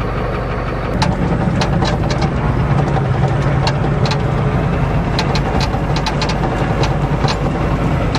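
Ford diesel truck engine running with no exhaust system or muffler, heard from inside the cab while driving; the engine gets louder about a second in. Many sharp rattles and clicks from the bouncing cab sound over it.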